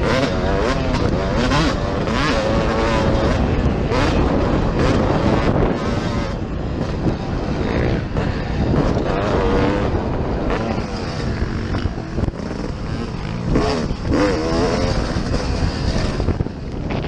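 Motocross dirt bike engines revving up and down through the gears, pitch rising and falling every second or two over a dense rumble.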